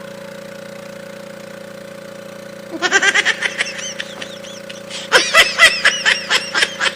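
A steady engine hum runs throughout. From about three seconds in, someone giggles in quick bursts, loudest about five seconds in.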